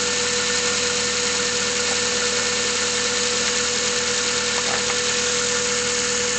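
Mazda 3 engine idling cold with a steady, rapid knocking noise, a fault that Mazda traced to the pistons and replaced under warranty.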